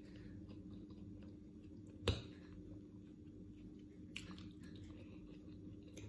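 Quiet chewing of a mouthful of food, with one sharp click of cutlery on a ceramic plate about two seconds in and a softer click about four seconds in.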